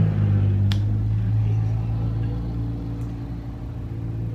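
A small electric motor hums steadily and fades gradually, with a sharp click about a second in.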